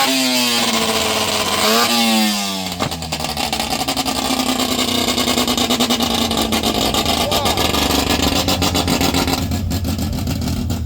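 Car engine revved, its pitch rising and falling, then settling about three seconds in to a running idle with a fast, pulsing beat.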